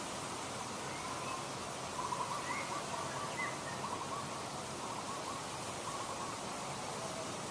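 A bird calling a quick series of short notes about two seconds in, with a few brief rising notes above them, faint over a steady hiss.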